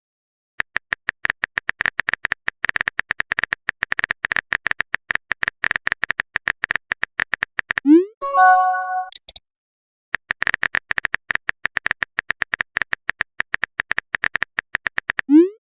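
Rapid runs of short, same-pitched electronic blips, the text-scroll sound of dialogue appearing letter by letter. About eight seconds in, a quick rising swoop and a few chime-like tones break the two runs.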